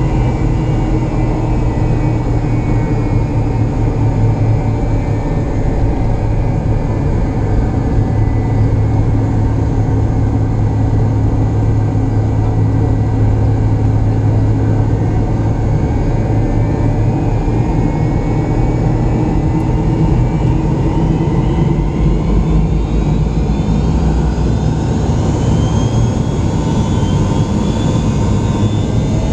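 McDonnell Douglas MD-88 jet engines (Pratt & Whitney JT8D turbofans) running with a loud, steady rumble and a whine. Over the last few seconds the whine climbs in pitch.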